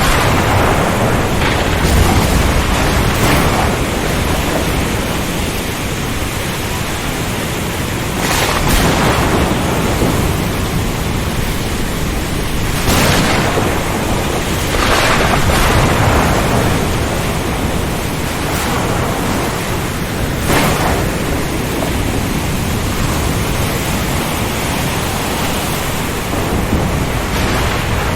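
Ocean storm ambience: a steady, dense wash of wind, rain and sea, with louder surges every few seconds.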